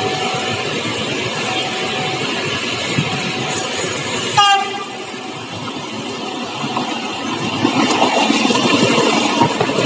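Commuter train approaching: a short train horn blast about four and a half seconds in is the loudest sound, after a level-crossing warning tone sounding on and off. From about seven seconds the rumble of the train grows louder as it nears.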